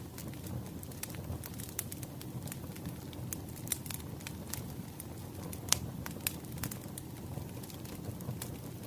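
Wood fire crackling: irregular sharp pops and snaps over a steady low rumble of burning logs, with one louder pop a little before six seconds in.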